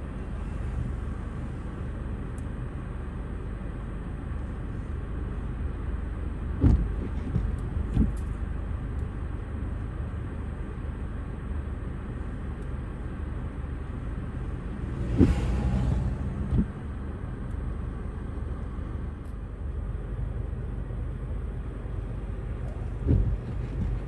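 Small snowblower engine running steadily with a low rumble, with a few dull thumps along the way.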